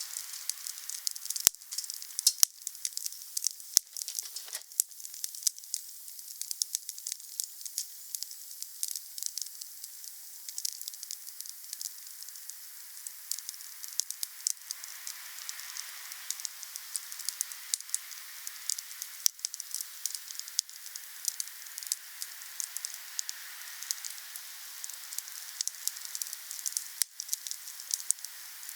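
Wood fire burning, with a steady crackle and hiss and several sharp pops spread through, the loudest about a second and a half in.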